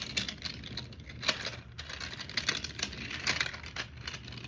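Hands handling and squeezing a squishy toy, giving irregular small clicks and rustles.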